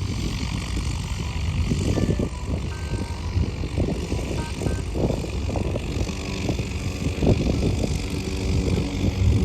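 Cessna 208B Grand Caravan's Pratt & Whitney PT6A turboprop running as the plane departs: a steady low rumbling drone. A pitched propeller hum starts to come through near the end.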